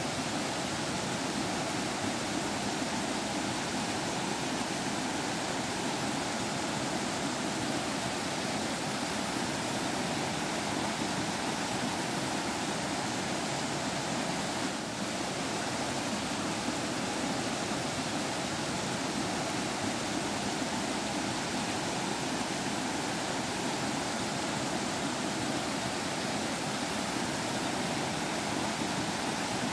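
Stream water flowing and trickling steadily, an even rushing with no breaks.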